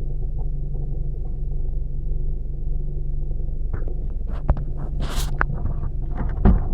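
Ford Focus II 2.0-litre engine running steadily with a faint regular ticking, a knock which the owner puts down to a worn gearbox input shaft bearing. Several sharp clicks and knocks and a brief hiss come in the second half.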